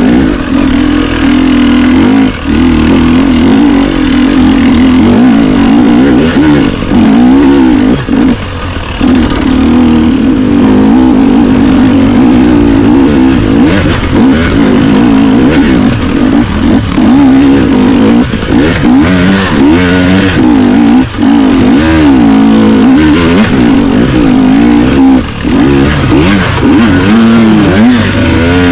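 Dirt bike engine running hard on a trail ride, its pitch rising and falling continuously with the throttle, with a few short drops when the throttle is rolled off.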